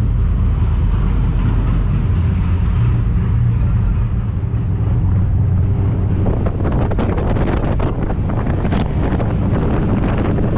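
A moving vehicle's engine and road noise, a steady low rumble. From about six seconds in, wind buffets the microphone, as from an open window at speed.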